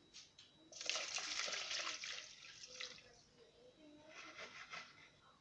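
Water being poured into a bowl of instant noodles. It runs strongly for about two seconds, then trickles more faintly near the end.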